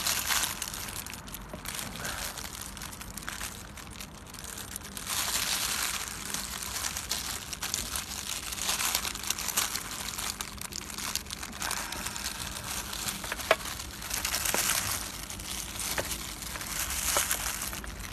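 Crinkling and rustling of the wrapping around a store-bought roast chicken as it is handled and pulled apart, in uneven bursts, with a few sharp clicks.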